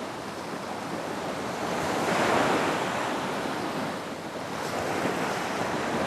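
Ocean surf washing onto a beach, a steady rush of breaking waves that swells to a peak about two seconds in, eases off, then builds again near the end.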